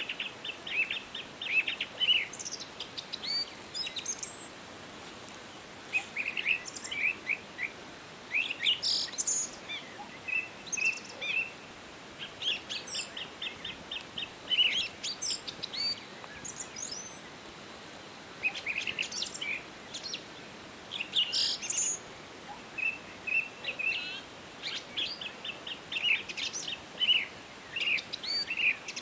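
Several songbirds chirping and singing in quick, overlapping phrases and short trills, over a faint steady background hiss.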